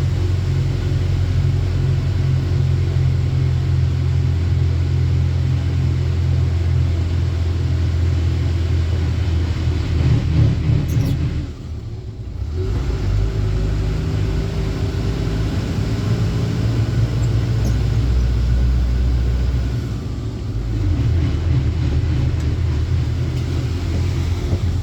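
Truck engine running as the truck drives, a steady low rumble that drops off briefly about halfway through and again near the end.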